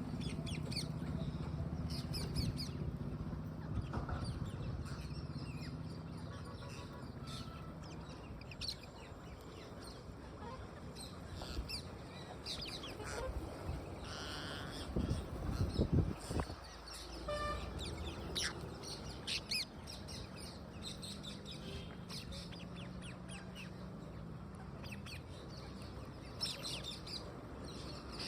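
Parrots chirping in quick, short, high calls throughout, over a low steady hum. A louder low rumble comes about halfway through.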